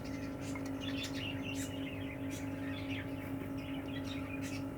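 Budgerigars chirping in many quick, short calls, over a steady electrical hum.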